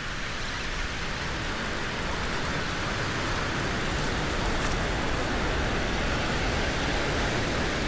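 Steady rushing hiss of surf washing up on the beach.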